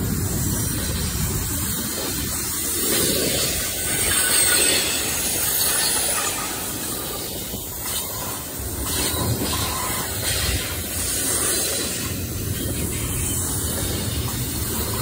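Double-stack intermodal freight train's well cars rolling past close by: a steady rumble of steel wheels on the rails, with scattered clacks as wheels cross rail joints.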